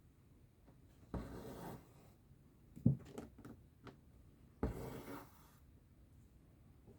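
Embroidery thread drawn through cross-stitch fabric: two soft rasping swishes a few seconds apart, with a sharp tap and a few light clicks of the needle between them about three seconds in.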